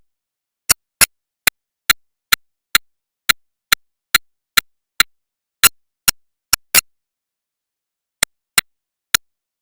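A series of sharp, short clicks, roughly two a second and unevenly spaced, with dead silence between them. They stop shortly before the end.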